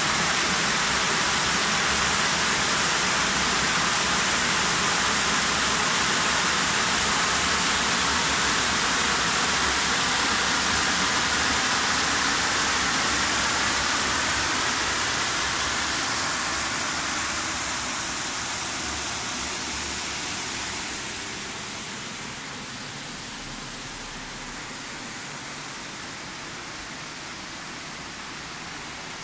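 Rushing water, a steady full hiss with no distinct events. About halfway through it fades down by a good deal over several seconds, then carries on at the lower level.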